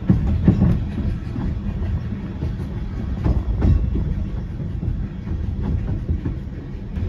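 Narrow-gauge railway carriage running along the track over a steady low rumble, its wheels clacking irregularly over rail joints and pointwork; the clacks are loudest about half a second in and again around three and a half seconds.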